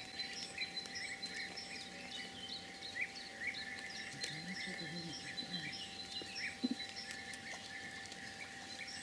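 Small birds chirping and calling in many short, quick notes, faint, over a soft steady background.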